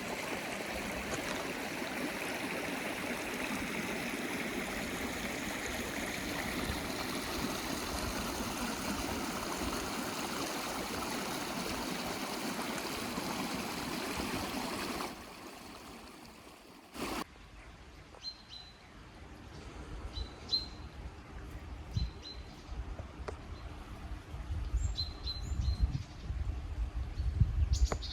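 Mountain stream rushing steadily, then cut off about halfway through. After a click, a quieter outdoor scene follows, with short high bird chirps now and then and a low rumble that grows toward the end.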